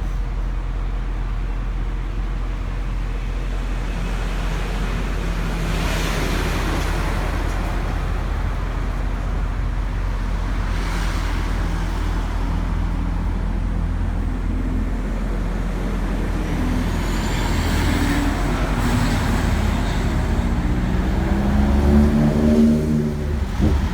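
Motor vehicle engine running steadily with a low hum and road-traffic noise. Near the end a louder engine note rises and falls in pitch, like a vehicle accelerating past.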